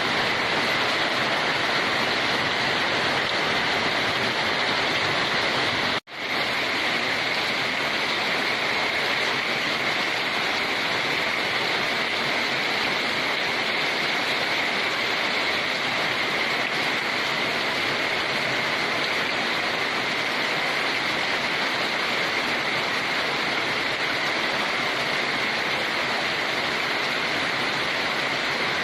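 Steady, heavy rainfall, a dense even hiss of falling water. It cuts out for a split second about six seconds in, then resumes.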